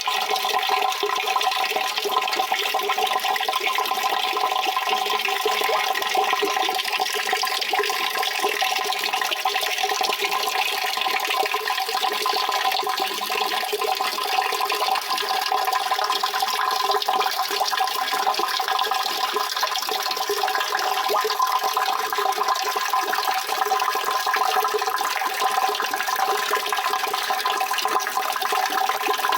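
Water running steadily without a break, an even rushing with a few steady ringing tones held in it.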